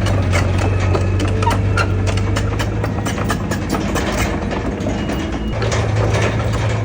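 Heavy earthmoving machine's diesel engine running, with frequent sharp metallic clanks and rattles over it. The low engine hum eases off in the middle and comes back stronger about five and a half seconds in.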